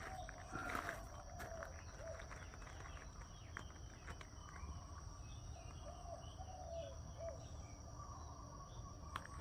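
A steady high insect drone with birds calling over it: short, low, arching notes repeated in runs, and scattered higher chirps.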